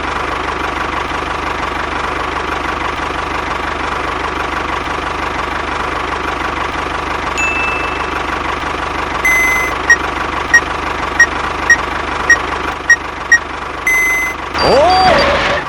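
DIY mini tractor running steadily with a motor whine. About nine seconds in comes a long beep, then a string of short beeps, a little under two a second; near the end a brief swooping sound.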